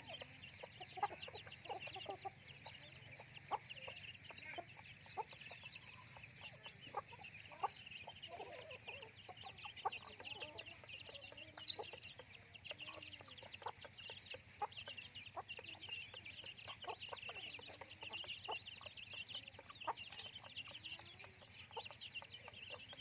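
A flock of chickens clucking softly, with low curving calls scattered throughout over a dense, continuous high-pitched chirping and occasional sharp clicks.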